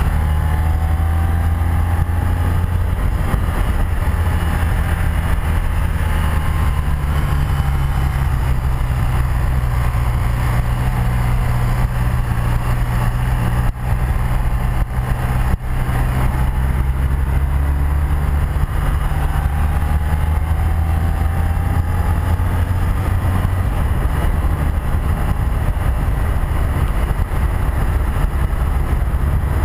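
1984 BMW R100RS air-cooled 980 cc boxer twin running steadily under way, heard from the rider's seat with wind rush. The level dips briefly twice about halfway through, as the throttle eases.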